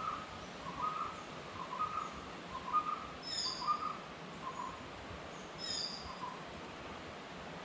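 A bird calling a repeated two-note phrase, about once a second, which stops near the end, while a second bird gives a high, falling chirp twice.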